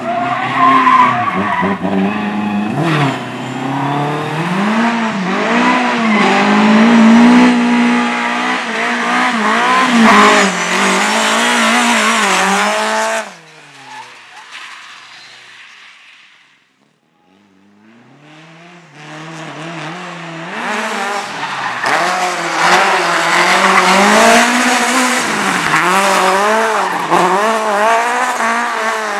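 Slalom race car engine revving hard, its pitch swinging up and down with each throttle lift and gear change, with tyres squealing and skidding. About 13 s in the sound drops off sharply and fades to near quiet, then a car's engine builds up again from about 19 s, revving the same way.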